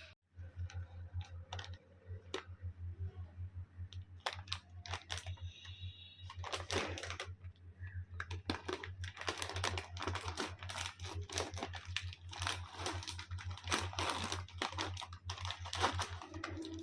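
Typing on a computer keyboard: a run of quick, irregular key clicks that grows denser from about six seconds in, over a steady low hum.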